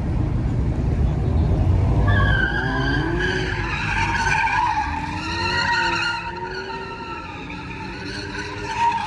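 A car's engine running hard at high revs, and from about two seconds in its tyres squeal in long, wavering tones as it slides under power, the engine note swinging up and down. The squeal eases off for a couple of seconds near the end, then comes back loud.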